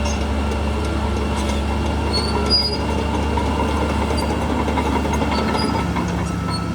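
A Shantui crawler bulldozer's diesel engine runs steadily under load, with short high metallic squeaks from its steel tracks.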